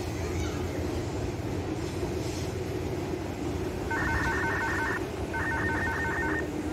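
Steady low rumble of a commuter electric train running on the far tracks. Near the end, two bursts of rapid electronic beeping, each about a second long with about six quick beeps, sound over the rumble.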